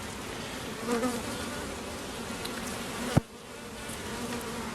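Honeybees buzzing steadily around an open hive, with one bee droning close past about a second in. A single sharp click a little after three seconds.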